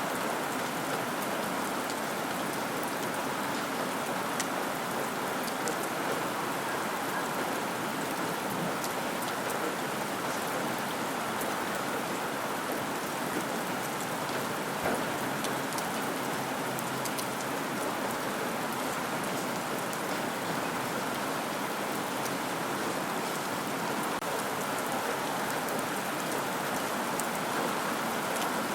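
Steady rain falling on a surface, an even wash of noise with scattered sharp drop ticks.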